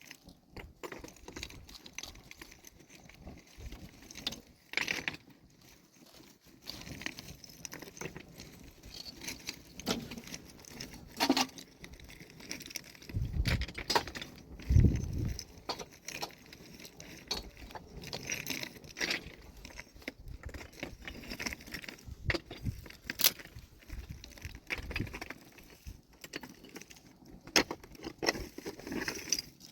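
Irregular clinks and knocks of rocks and metal tools being handled as stone is broken and cleared, with a couple of heavier thumps about 13 and 15 seconds in.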